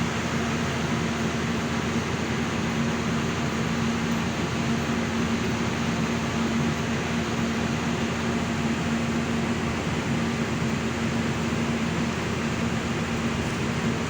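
A steady mechanical drone: a constant low hum over an even rushing noise, with no change in pitch or level.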